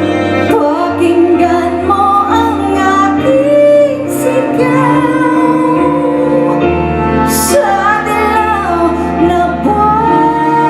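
A woman singing a ballad live with a band. She holds long notes with vibrato and slides between pitches over sustained bass and keyboard chords.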